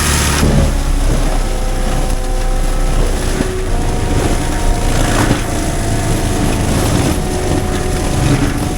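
CAT 310 excavator's diesel engine and hydraulics running steadily under load, with a few short cracks of breaking wood.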